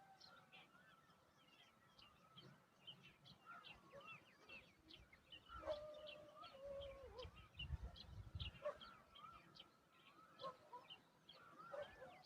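Faint bird calls: many short high chirps and warbling notes, with a longer, lower call held for about a second, some six seconds in. A brief low rumble follows about two seconds later.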